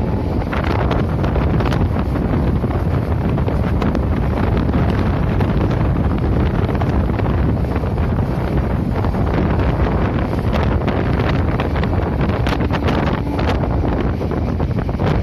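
Passenger train running at speed: a steady loud rumble with wind buffeting the microphone, and a few short knocks from the wheels near the end.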